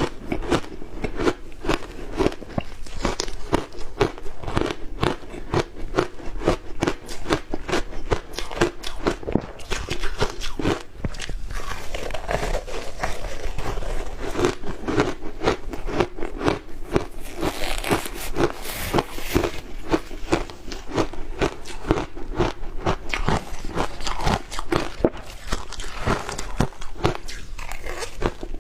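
Close-up crunching of ice being bitten and chewed, a dense run of rapid cracks and crackles.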